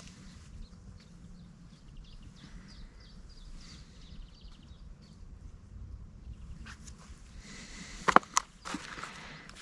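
Faint outdoor night sounds with short animal chirps or trills, then a few sharp knocks or clicks close to the microphone near the end.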